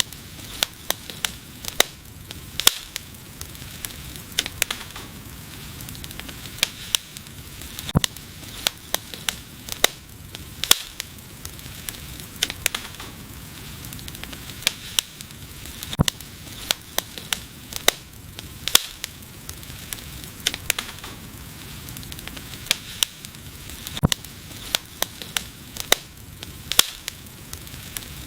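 Wood fire burning, with a steady hiss and many sharp, irregular crackles and pops, several a second, some louder snaps among them.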